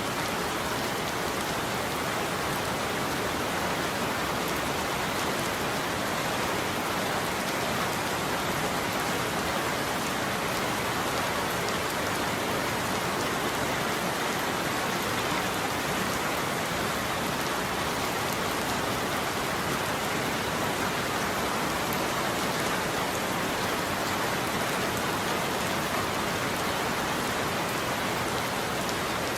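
Steady heavy rain falling, an even continuous patter with no change in strength.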